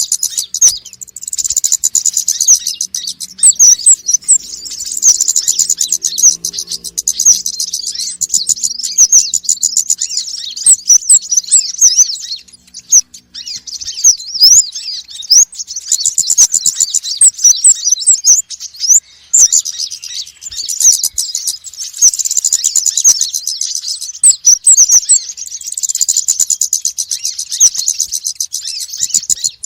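Konin and wulung sunbirds calling in a fast, busy stream of high, thin chirps and twitters, with a couple of short lulls; a noisy agitated chatter.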